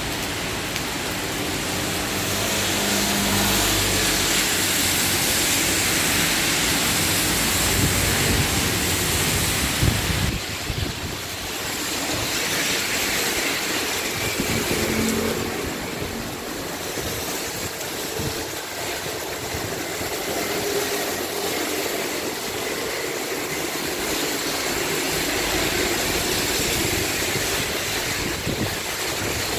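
Heavy rain pouring steadily onto the street, with vehicles passing on the wet road. The downpour is loudest in the first ten seconds, then eases a little.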